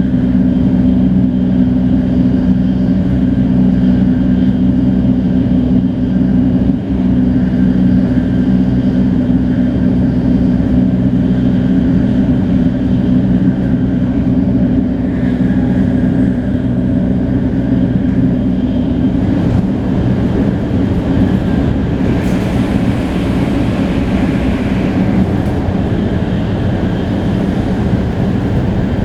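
Shinkansen 500-series train heard from inside a car while running at speed: a loud, steady hum with low humming tones from the Toshiba GTO-VVVF traction drive and wheels. About twenty seconds in, the hum fades and a broader rushing noise takes over.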